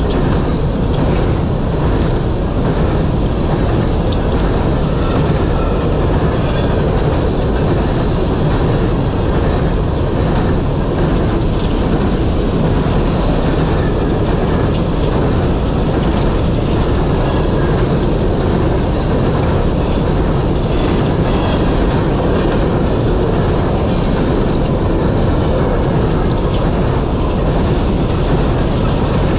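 Loaded coal train cars rolling past: a steady, loud rumble of steel wheels on rail with a regular clickety-clack as the wheels cross rail joints.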